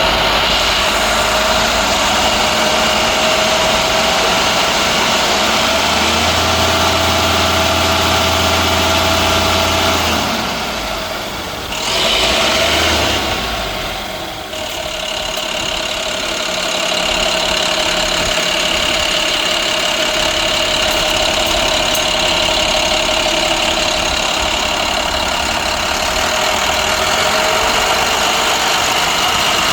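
MaxxForce 9 inline-six diesel engine of an International 7400 truck idling steadily, dipping briefly in loudness about a third of the way through.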